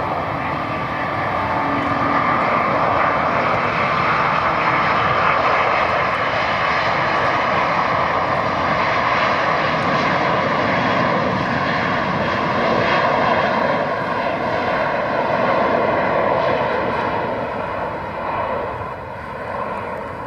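Airbus A350-900's twin Rolls-Royce Trent XWB turbofans at take-off thrust: a loud, steady rush of jet noise with a faint whine in it, falling away over the last couple of seconds.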